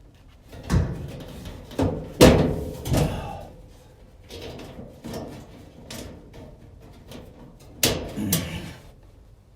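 Metal parts of a clothes dryer being handled during reassembly: a series of clunks and knocks, the loudest about two seconds in and two more near the end, with quieter handling noise between.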